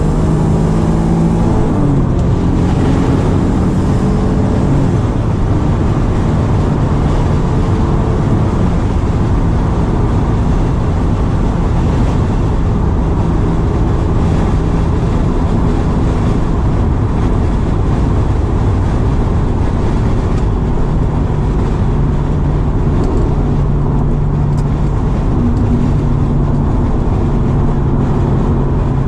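Cabin sound of a 1999 Acura NSX's twin-turbocharged V6 on the move: the engine rises in pitch under acceleration, drops about a second in, then settles to a steady drone under heavy wind and road noise at speed.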